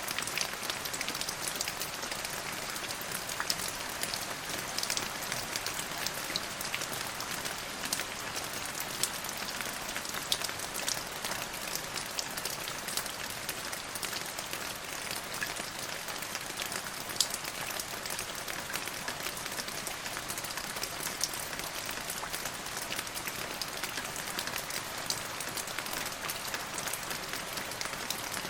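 Steady rain falling, with many small sharp drop ticks scattered through an even hiss.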